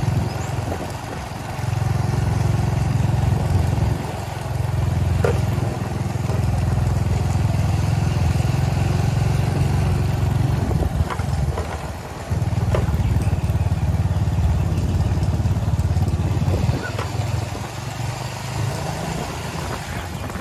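A motor vehicle running with a steady low rumble, easing off briefly a few times.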